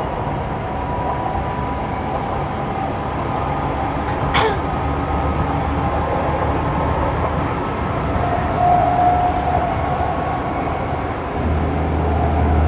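Saitama Railway 2000 series electric train running between stations, heard from inside the car: steady wheel-and-rail rolling noise with a faint steady tone. There is one sharp click about four seconds in, and a deeper rumble swells near the end.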